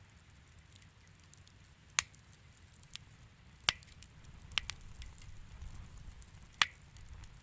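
Wood fire crackling in a fireplace: a soft continuous crackle over a low rumble, with four sharp pops spread through it.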